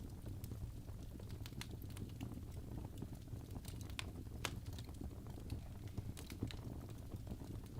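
Log fire burning in a fireplace, crackling with irregular sharp pops and snaps over a low, steady rumble.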